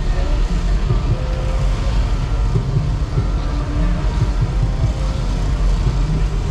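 Car engines running at a car show, a loud steady low rumble.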